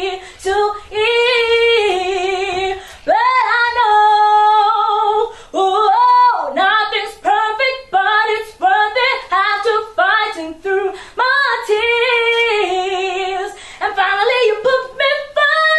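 A woman singing solo in a high voice, without instrumental accompaniment.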